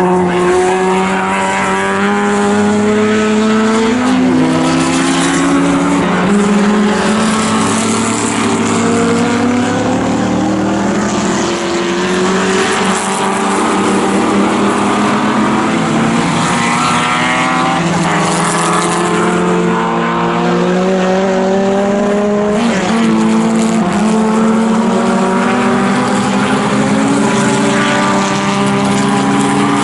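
Engines of several pre-1961 sports racing cars running at full throttle together. The pitch climbs steadily and drops back sharply every few seconds as they change up through the gears.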